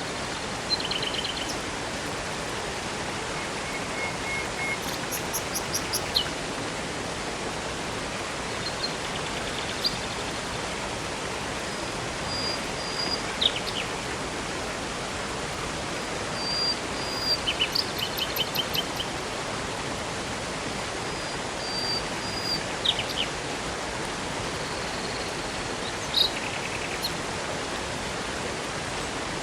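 Steady rush of flowing water from a river or waterfall, with birds calling and trilling over it every few seconds.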